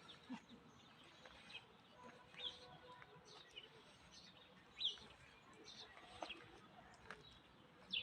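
Faint, scattered bird chirps, short high calls every second or so over a quiet background.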